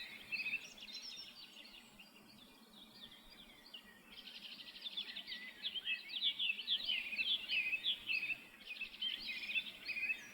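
Songbirds chirping in a busy chorus of short, high calls; it thins out about a second and a half in, then grows dense again from about four seconds in.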